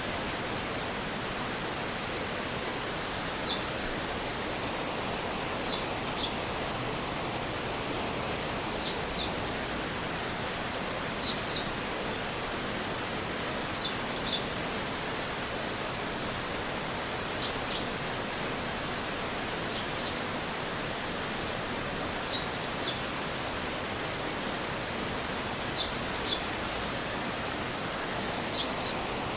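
Steady rushing of a stream's water, with short high chirps, often two close together, coming every two to three seconds over it.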